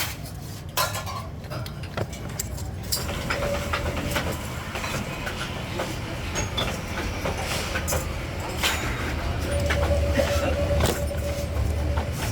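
Workshop machinery running with a steady low hum, over scattered metal clicks and knocks. A thin steady tone comes in twice, briefly about three seconds in and longer near the end.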